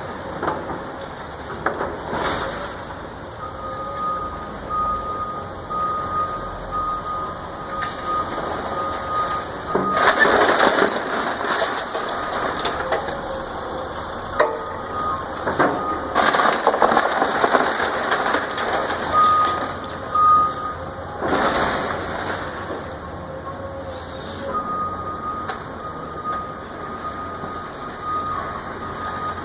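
Heavy demolition machinery at work on a house: a back-up alarm beeps on and off, and debris crashes and crunches in three loud spells, about ten, sixteen and twenty-one seconds in.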